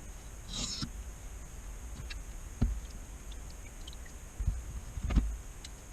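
A pocket knife blade scraping once across a wet 1000-grit whetstone, followed by a few faint ticks and three dull knocks of the knife or stone being handled.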